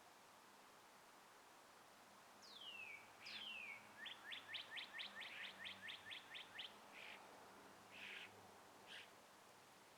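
Wild birds singing faintly: two falling whistled notes, then a quick run of about a dozen short rising chirps at roughly five a second, followed by a few scattered chirps.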